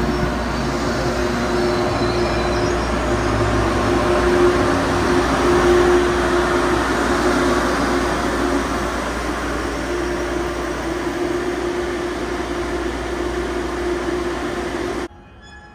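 Passenger train moving slowly along the platform: a steady rumble of wheels on rails with a droning hum under it. It cuts off suddenly near the end, leaving a fainter hum.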